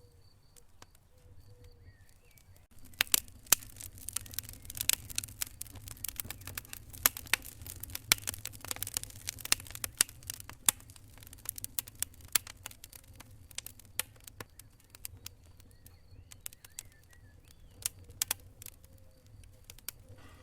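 Wood fire in a fireplace crackling and popping over a low, steady rumble of flames. The sharp pops start suddenly about three seconds in, come thick and fast for several seconds, then grow sparser.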